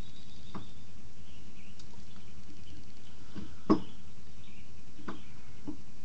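A few separate light knocks and clicks as a wood blank is fitted onto a wood lathe's center, with one sharper knock a little past the middle.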